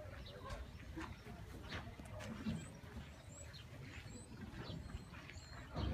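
Small birds chirping in short, scattered high calls over a low steady rumble, with a few light clicks.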